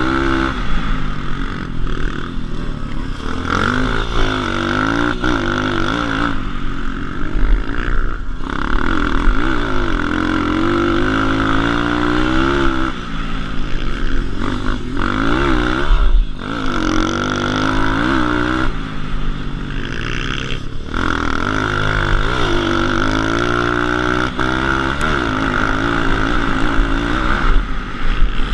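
A 140 cc pit bike's single-cylinder four-stroke engine being ridden hard. Its pitch climbs and falls over and over as the throttle is opened and closed, with wind buffeting the microphone.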